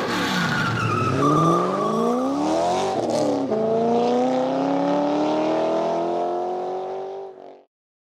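Car engine revving as an outro sound effect: the pitch slides down, climbs, dips again about three seconds in, then climbs slowly and steadily before fading out a little before the end. A tyre squeal sounds in the first two seconds.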